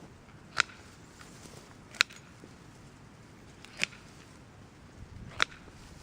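Pruning cuts through woody stems, four sharp snaps about a second and a half apart, as brush is cleared away from around a young apple tree.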